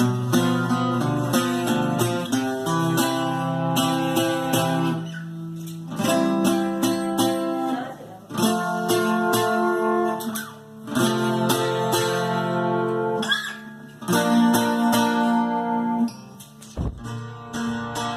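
Bajo quinto being played, strummed and picked in phrases separated by short breaks.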